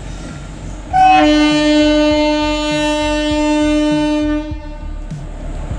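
A train horn sounding one long steady blast of about three and a half seconds, starting about a second in, over the rumble of a moving train and the regular knock of wheels over rail joints.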